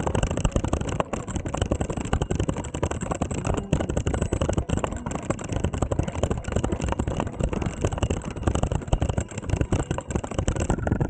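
Wind rumbling and buffeting on the microphone, with irregular rattling, from riding a bicycle.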